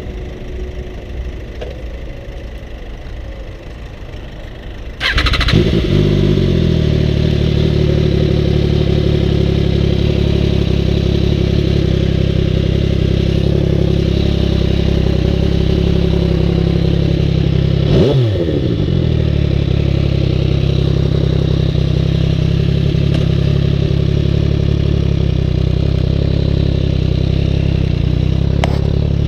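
MV Agusta Dragster 800RR's three-cylinder engine through a QD aftermarket exhaust, starting about five seconds in and then running at a steady, loud idle. About two-thirds of the way through there is one brief rev.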